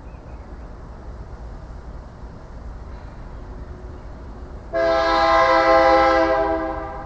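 Diesel locomotive's air horn sounding one long multi-note chord that starts suddenly about five seconds in and fades out about two seconds later, over a steady low rumble.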